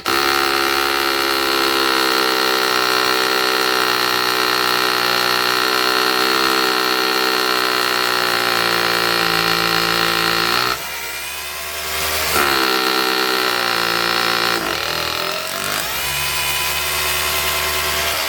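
Cordless 20 V SDS rotary hammer drill running a 5mm masonry bit into a paving brick, with a steady loud drone. About ten seconds in, the drilling eases off for a second or so and the pitch swings before it picks up again. It stops abruptly at the very end.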